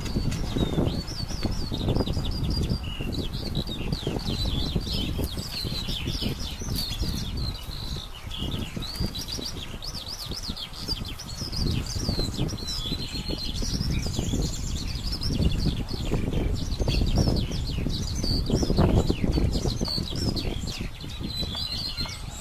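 Small birds chirping and twittering continuously in quick high phrases, over an uneven low rumble.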